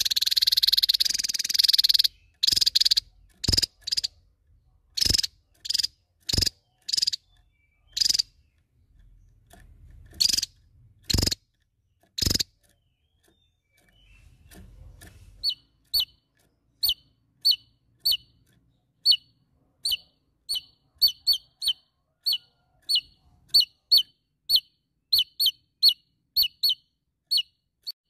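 Javan tesia calling: loud sharp notes, a dense burst at the start and then single notes spaced a second or so apart. After a pause of about three seconds comes a run of short high chirps, about one to two a second, coming closer together later on.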